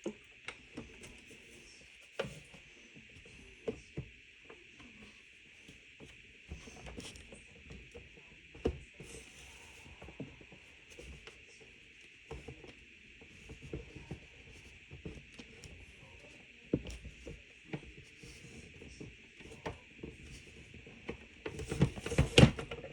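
Irregular clicks, knocks and rattles of plastic parts being handled and fitted onto a Crane evaporative humidifier, with a run of louder bumps near the end.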